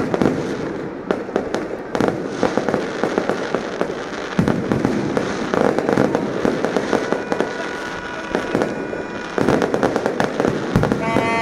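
Fireworks going off in rapid succession: many close-together bangs over continuous crackling.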